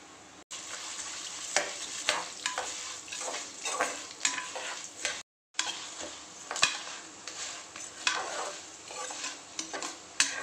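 Horse gram, toor dal and whole spices frying in a little oil in a pressure pan, sizzling steadily as a steel spoon stirs and scrapes them across the pan's bottom. The sound drops out briefly twice.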